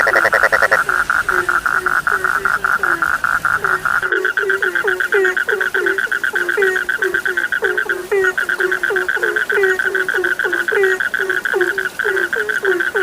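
Frog chorus: a fast pulsed trill held steady throughout, with many shorter, lower croaks a few times a second beneath it. A louder pulsed call stands out in the first second.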